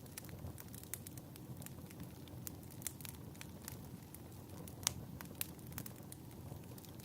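Fireplace fire crackling: irregular pops and snaps over a low steady rumble, with one sharper pop about five seconds in.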